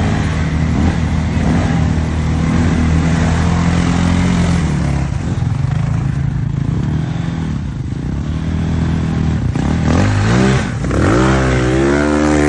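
Enduro motorcycle engine running hard at a fairly steady pitch, then revving up and down several times near the end.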